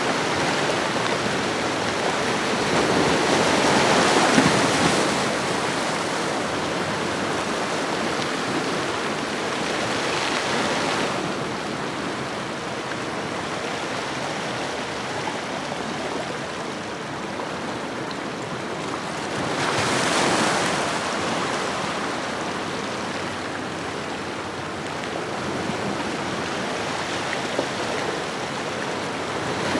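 Ocean waves washing onto a shore: a continuous hiss of surf that swells louder as waves break, about 4 s, 10 s and 20 s in.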